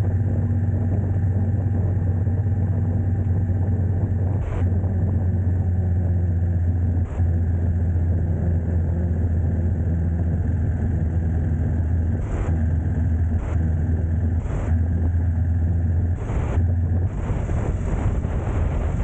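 Steady low engine hum of a motor vehicle with no change in pitch, broken by a few brief knocks.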